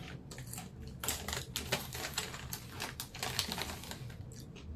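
Potato chips crunched while being chewed close to the microphone: an irregular run of crisp crackles, densest in the middle.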